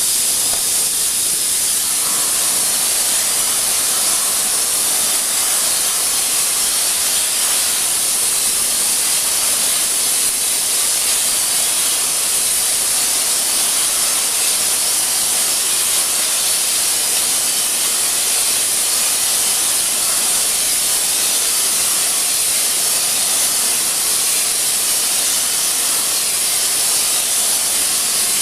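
Loud, steady hissing without a break, like a jet of air, water or steam.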